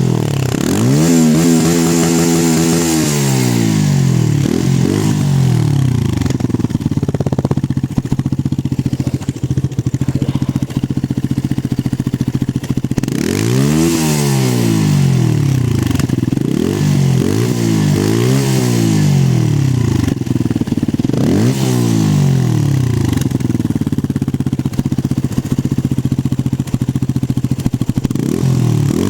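Benelli 125S motorcycle engine on its stock exhaust, idling and being revved again and again: each rev rises sharply in pitch and falls back to idle. A long steady idle stretch sits in the middle, with several quick revs in a row later on.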